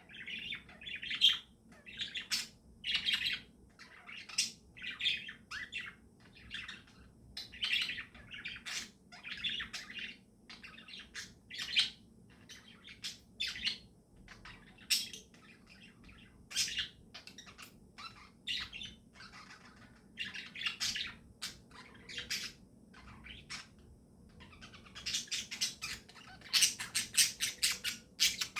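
Pet budgies and lovebirds chirping: short, high calls every second or so, crowding into a quick run of rapid chirps near the end.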